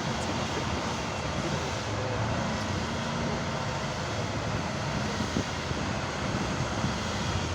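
Off-road trial truck's engine running steadily, a continuous low engine drone.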